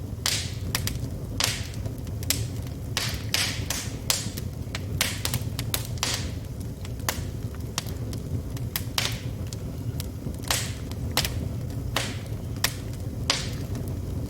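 Wood fire in a fireplace crackling: burning logs give off irregular sharp pops and snaps, about one or two a second, over a steady low rumble of the flames.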